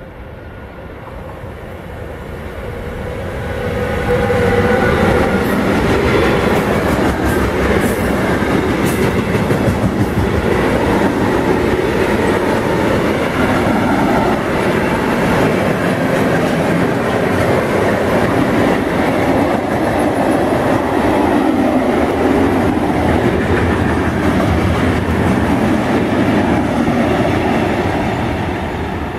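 Electric freight train passing at speed: it grows louder as it approaches, and a whine falls in pitch as the locomotive goes by about four seconds in. Then a long run of covered freight wagons rumbles and clatters over the rails, easing off slightly near the end.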